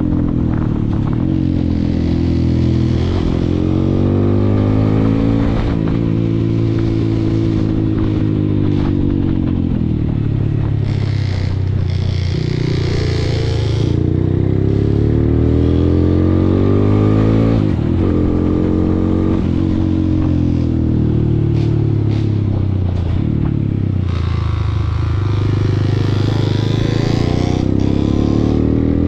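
Honda Grom 125 four-stroke single-cylinder engine, fitted with a Yoshimura carburettor and Yoshimura exhaust, running and being revved up and down several times, the revs rising and falling over a few seconds each time.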